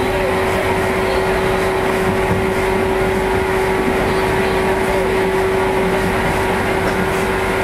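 JR 115 series electric train running, heard from inside the car: steady running noise with a steady hum that holds one pitch.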